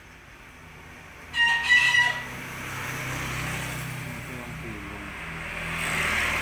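A bird gives one loud, brief pitched call about a second in. After it, a vehicle runs past, its sound swelling near the end.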